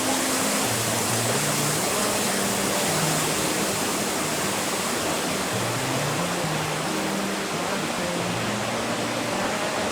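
Steady rushing noise of strong wind, under background music with a slow, low melody.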